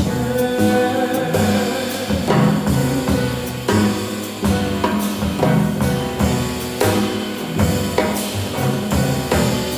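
Instrumental break in a jazz arrangement, with no singing: a drum kit keeps a steady beat over moving bass notes.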